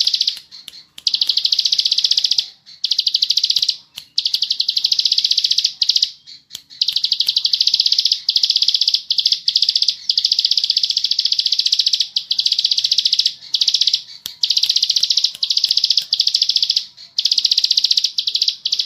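Ciblek sawah, a prinia, singing a fast, continuous buzzing trill in the 'ngebren' style. The trill runs in long stretches of several seconds, broken by short pauses.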